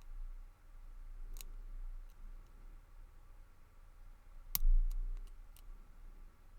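Small metallic clicks of a lock pick working the pins inside a Lockwood 334B45 brass padlock. There are a few faint ticks, then one sharper click a little past halfway, followed by a quick run of lighter clicks.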